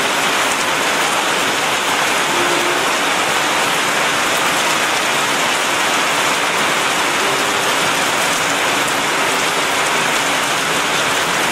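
Rain falling steadily on wet ground, a constant hiss that cuts off suddenly at the end.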